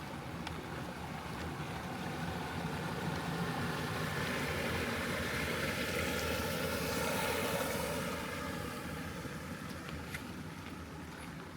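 A motor vehicle passing, its engine sound swelling to a peak several seconds in and then fading, over a steady background hiss of rain and wind.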